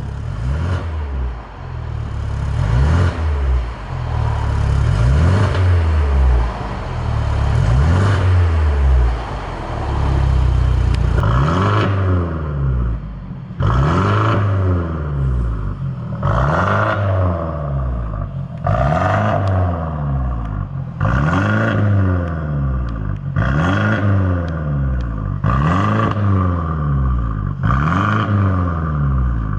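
Mercedes-Benz W213 E300's turbocharged four-cylinder engine being revved through an aftermarket valved full exhaust with mid and end mufflers. At first the revs come dense and overlapping. From about twelve seconds in they become separate blips roughly every two seconds, each rising and falling in pitch.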